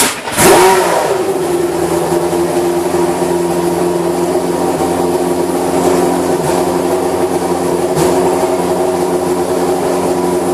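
Historic Formula 1 car engine blipped sharply, the revs dropping away about half a second in, then running steadily at a constant high idle.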